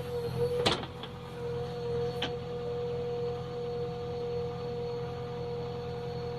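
JCB backhoe loader's diesel engine running, with a steady hydraulic whine held at one pitch, and two sharp knocks, the louder one about a second in and another about two seconds in.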